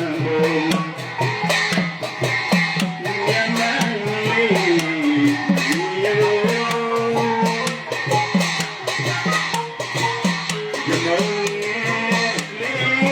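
Burmese traditional ensemble music: drums beating a steady rhythm with fast, sharp percussion ticks, under a melodic line that slides up and down in pitch.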